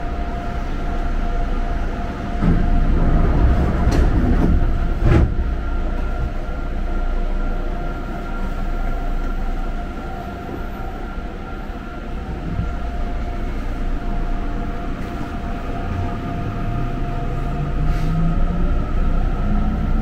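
Electric commuter train running with a heavy low rumble and steady humming tones, and a few sharp knocks a few seconds in. Near the end a whine rises in pitch as the train picks up speed.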